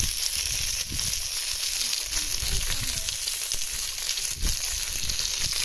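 Wood campfire burning: a steady hiss with scattered crackles and pops, and a sharper pop about four and a half seconds in.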